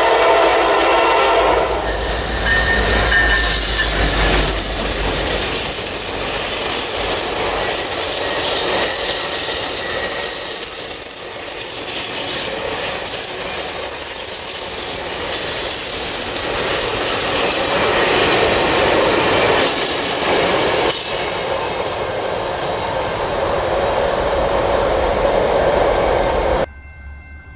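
A train horn sounding a chord that ends about a second and a half in, then a train passing close with continuous wheel and rail noise and a thin high wheel squeal in the middle. It cuts off abruptly near the end, leaving faint steady tones.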